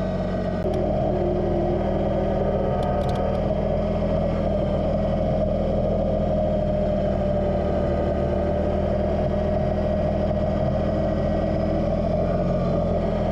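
Kubota BX2380 sub-compact tractor's three-cylinder diesel engine running steadily.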